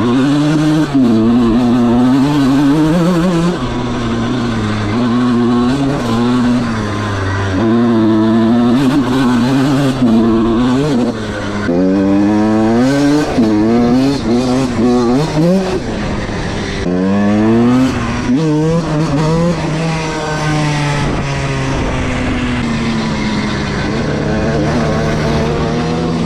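1997 Honda CR125R's 125cc two-stroke single-cylinder engine, its revs repeatedly rising and falling, with several quick climbs in pitch one after another around the middle.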